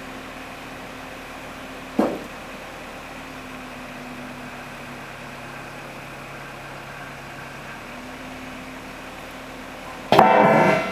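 A construction machine's engine running steadily at a constant pitch. A short sharp knock comes about two seconds in, and a louder sound with several tones starts near the end.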